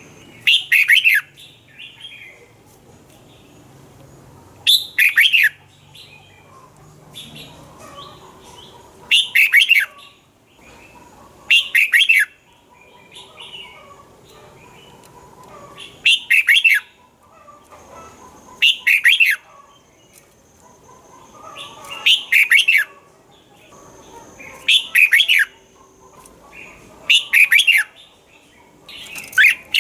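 Red-whiskered bulbul singing: short, loud, warbled phrases of about a second each, repeated every two to four seconds, with softer chirps between them.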